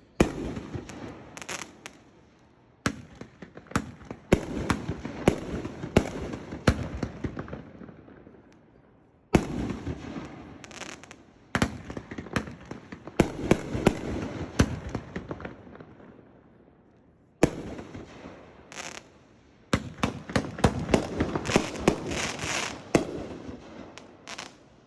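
Tako brand 'Sailor's Nightmare' 500-gram, 16-shot consumer fireworks cake firing: a string of sharp reports, each followed by a fading tail, coming in bunches with short lulls between them.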